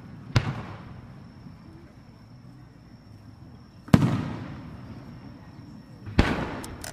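Aerial firework shells bursting overhead: three loud bangs, just after the start, about four seconds in and about six seconds in, each trailing off in a long echo.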